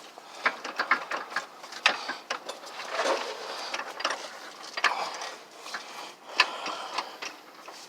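Irregular metallic clicks, knocks and scraping of hand tools and parts as a car's drive axle is pushed and pulled out of the transmission.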